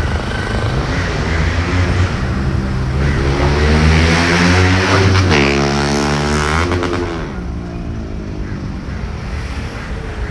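A motor vehicle approaching and passing close by. Its engine note climbs, drops sharply in pitch as it goes past about five seconds in, then fades.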